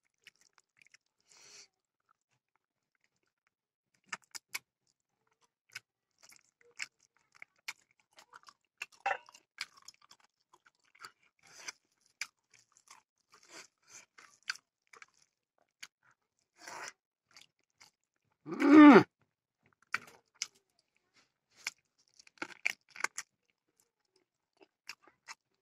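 Close-up mouth sounds of a person chewing pork leg and rice: scattered wet smacks and clicks. About two-thirds of the way in there is one short, louder grunt-like vocal sound.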